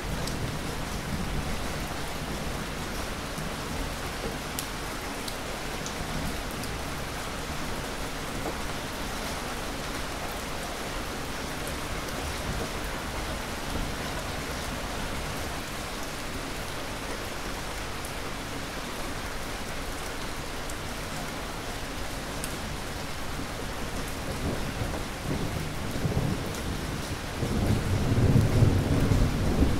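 Steady heavy rain falling, with a low rumble of thunder swelling near the end.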